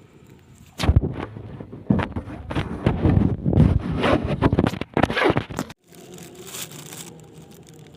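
Loud irregular knocking, scraping and rustling right against a phone's microphone, the handling noise of a phone being grabbed or knocked about. It stops abruptly after about five seconds.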